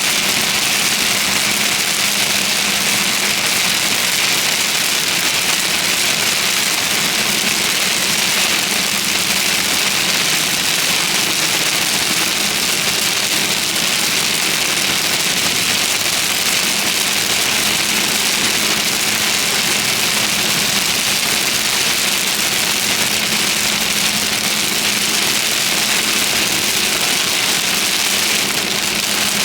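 Steady, even hiss of a car on the move, heard from inside the cabin, with a faint engine hum underneath.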